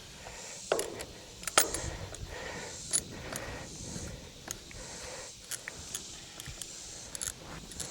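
Scattered light metallic clinks and rattles of tow chains and hooks being handled, short sharp ticks at irregular intervals.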